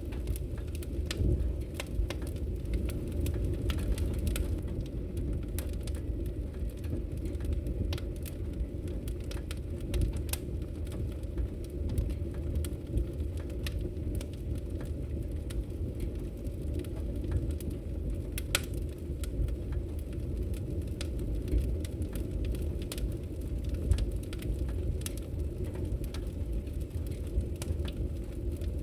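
Wood logs burning in a fireplace: a steady low rumble with frequent sharp crackles and pops scattered irregularly throughout.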